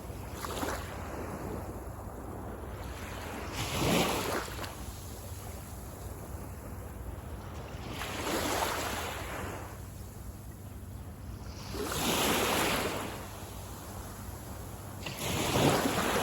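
Small waves breaking and washing up a sandy beach, one surge about every four seconds, each swelling and fading away over about a second, over a steady low rumble of surf.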